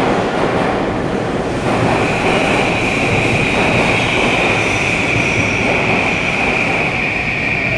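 Tobu 50000-series electric train running, heard from inside the car: steady rumble of wheels on rail and running gear, with a steady high-pitched whine that sets in about two seconds in and holds.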